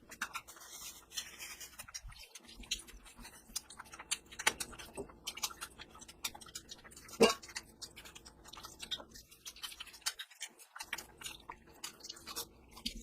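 Close-miked chewing of curry and rice, with a rapid run of small wet clicks and smacks and one sharper click about seven seconds in.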